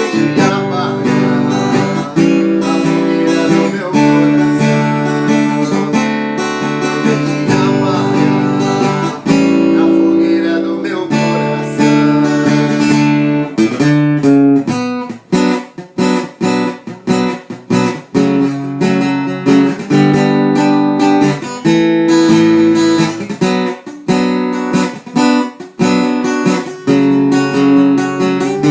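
Acoustic guitar playing an instrumental passage with no singing, held chords at first and then choppy, rhythmic strumming from about halfway through.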